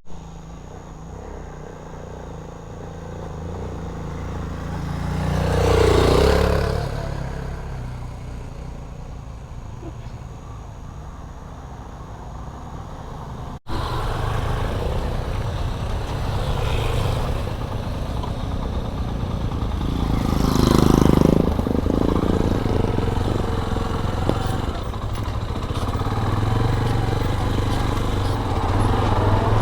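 Motorcycle engine running steadily while riding along a road, with two louder swells that build and fade, about six seconds in and again about twenty-one seconds in.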